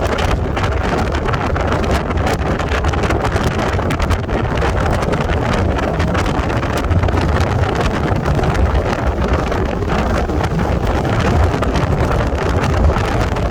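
Wind buffeting the microphone over the steady low rumble of a moving train.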